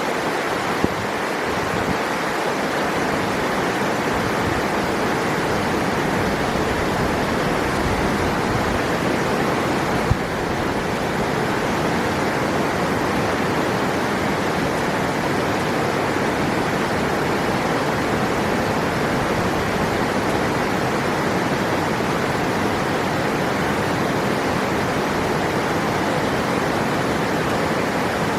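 River water flowing in a steady, even rush, with a couple of faint brief ticks.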